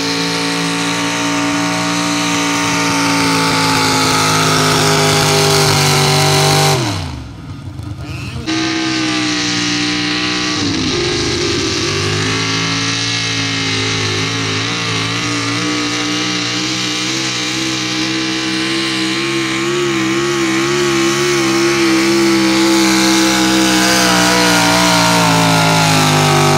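Pickup truck engine running hard at high revs under load while pulling a sled. Its pitch sags slightly, the sound drops out abruptly for about a second and a half around seven seconds in, then comes back wavering and climbs slowly in pitch.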